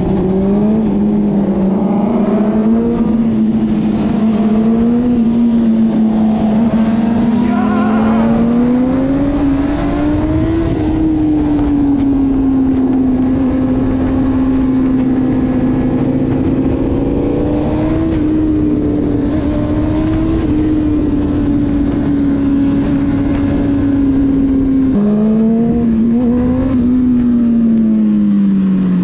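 Car engine running at highway speed, its pitch slowly rising and falling with the throttle. About 25 seconds in the pitch drops abruptly, climbs again, and falls away steadily near the end as the car slows.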